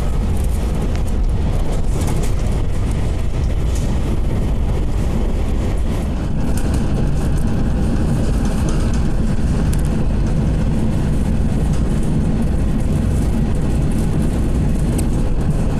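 Taiwan Railways local train running, a steady loud rumble with noise across the range that shifts slightly about six seconds in.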